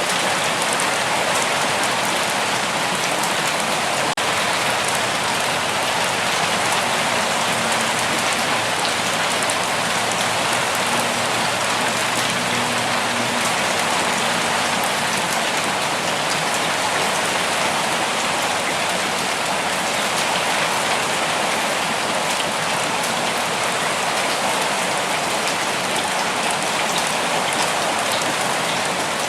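Steady rain falling, an even patter of drops on surfaces with no let-up.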